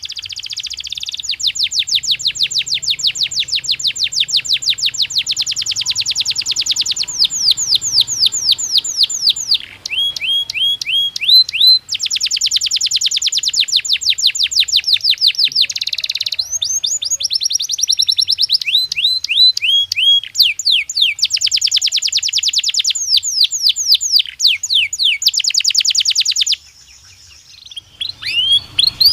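Domestic canary singing a long song made of fast trills, each a run of rapidly repeated notes. It switches from one trill to another every few seconds and pauses briefly near the end.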